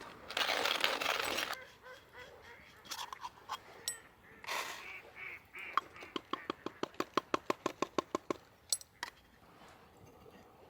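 Waterfowl calling: a quick, even run of about a dozen honking quacks a little past the middle, after a short hiss at the start and a few scattered clicks.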